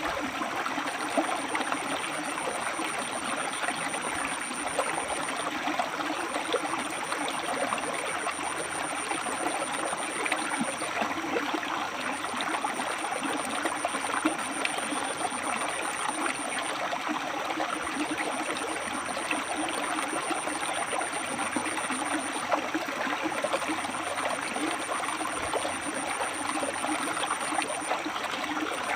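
River water flowing and splashing over rocks, a steady rushing with fine bubbling. A thin high-pitched tone sounds over it in stretches of four or five seconds with short breaks.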